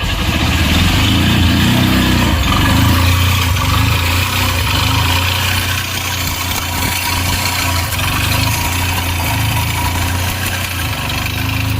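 Hero Passion Pro motorcycle's single-cylinder four-stroke engine idling steadily.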